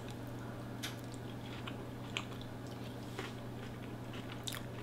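A person chewing a mouthful of chicken salad with the mouth closed: a few faint, scattered soft clicks and smacks over a steady low hum.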